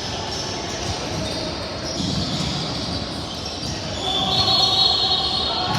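Basketball game sounds in a gym: a ball bouncing on the hardwood amid echoing court and crowd noise. About four seconds in, a steady high-pitched tone rises over it for more than a second and the sound gets louder.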